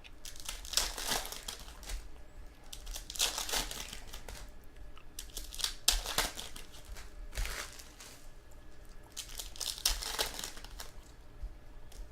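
Plastic trading-card pack wrappers crinkling in irregular bursts, with some tearing, as packs are handled and torn open.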